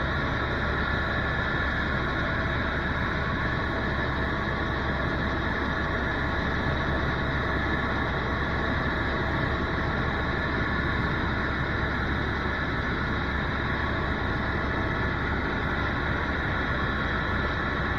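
Tour helicopter in flight, heard from inside the cabin: a steady engine-and-rotor drone with several held tones above it, unchanging throughout.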